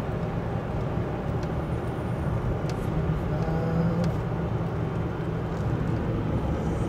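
Steady engine and road noise of a vehicle driving along while towing a travel trailer, with a low hum underneath.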